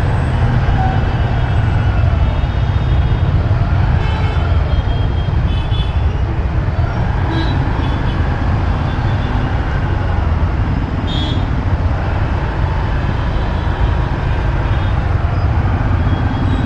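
Motorbike ride through city traffic: a steady loud low rumble of engine and road noise, with short horn toots from surrounding traffic, most clearly about eleven seconds in.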